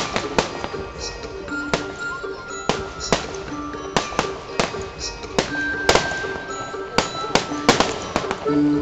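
Fireworks going off in quick, irregular succession, a dozen or more sharp bangs, over music with held notes playing along with the display.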